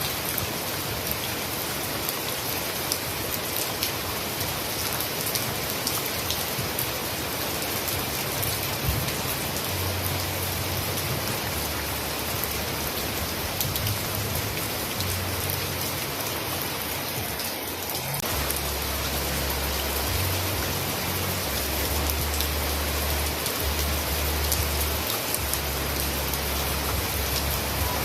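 Heavy rain falling steadily, a dense even hiss of drops on surfaces. A low rumble sits underneath, coming in about ten seconds in and stronger in the second half.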